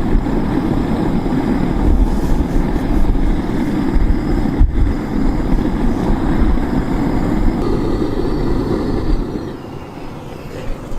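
A power tool runs steadily on the hammer and drops off about nine and a half seconds in.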